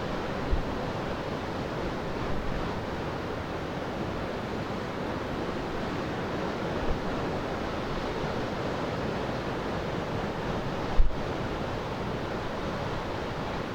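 Steady rush of wind buffeting the microphone over the wash of waves breaking on the shore, with a single short thump near the end.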